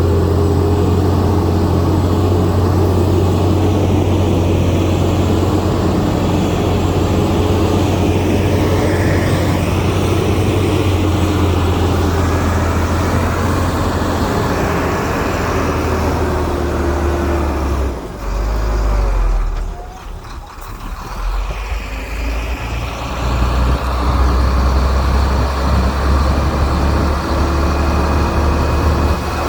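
Heavy earthmoving machinery's diesel engine running steadily at work, with a deep low hum. The sound drops away about 18 seconds in and builds back up a few seconds later.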